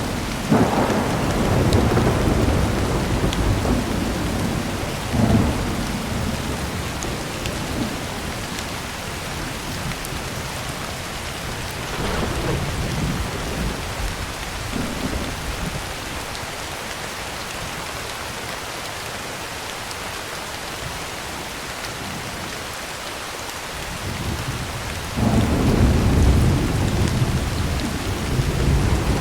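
Heavy rain pattering steadily on a tin roof, with rolling thunder: a rumble at the start, weaker rumbles about five and twelve seconds in, and a loud, long rumble beginning near the end.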